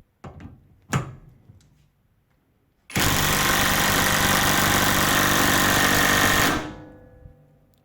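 Parkside Performance PPDSSA 12 A1 12V cordless impact wrench hammering in reverse (loosening direction) against a torque tester for about three and a half seconds, then stopping and spinning down. A couple of light clicks come before it.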